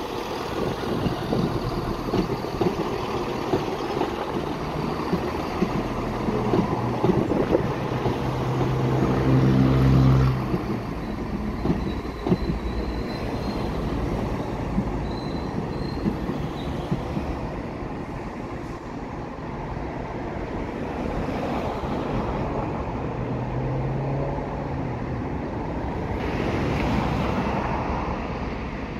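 Diesel multiple unit passing below and pulling away along the track, its underfloor diesel engine droning over a continuous rumble of wheels on rail, loudest about ten seconds in. A faint high wheel squeal follows a few seconds later.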